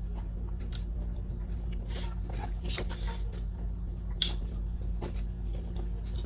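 Close-up chewing and wet mouth smacks while eating soft boiled sweet potato, scattered short clicks with a soft squishy swish a couple of seconds in, over a steady low hum.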